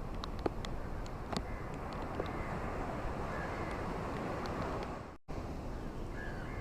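Ocean surf washing in a steady rush, with scattered small clicks. The sound cuts out for a split second about five seconds in.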